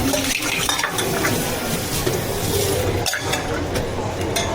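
Bubble tea counter work: utensils and cups clinking and scraping as a drink is stirred, over a steady hiss with a couple of louder bursts of it.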